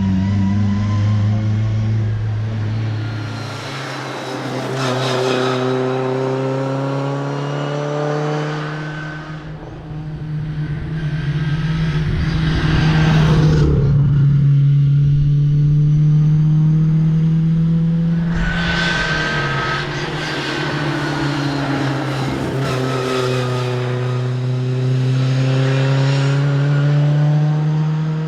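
Fiat 124's four-cylinder engine driven hard, revving up and changing gear several times, its pitch climbing, dropping at each shift and climbing again.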